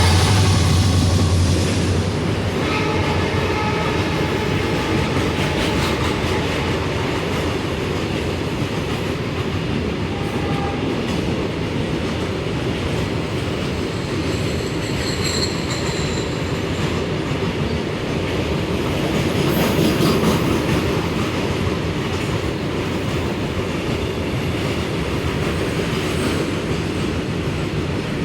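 Double-stack container freight train rolling past at speed: a steady rumble of wagon wheels on the rails with clickety-clack. A diesel locomotive's horn dies away about a second in.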